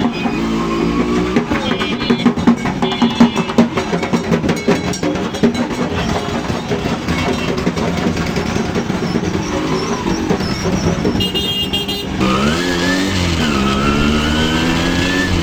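Two-stroke motorcycle engine being revved, its pitch rising and falling and rising again near the end, mixed with festival music and drumming that is busiest in the first half.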